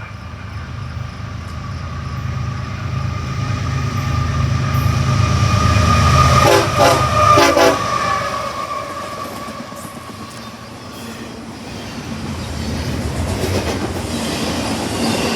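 A train approaching and passing: the locomotive's diesel rumble builds, then its air horn sounds in two short blasts about halfway through, and the railcars roll by with clickety-clack after that.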